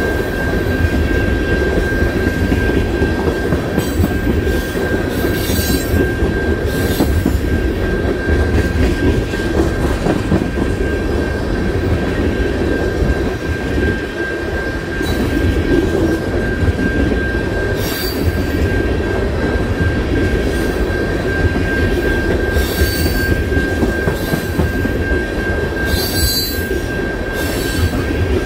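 CN freight train's cars rolling past: a steady rumble with a constant high wheel squeal, and several brief, sharper screeches from the wheels.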